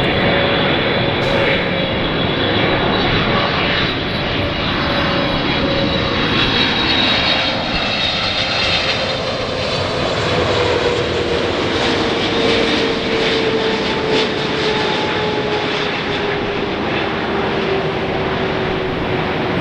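Airliner's engines passing close, a loud steady rush with a whine that slowly falls in pitch.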